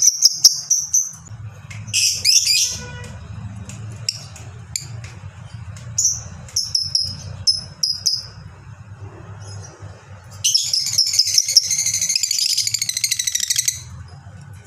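Lovebird calling over a low hum. It gives sharp high chirps, a harsh squawk about two seconds in, and a string of short chirps, then a long rapid chattering trill (the 'ngekek panjang') of about three seconds in the second half.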